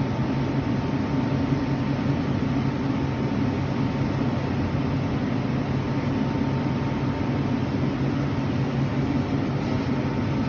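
Steady mechanical hum of refrigeration equipment, the whir of the drink cooler's fans and compressor, with a thin steady high tone over it.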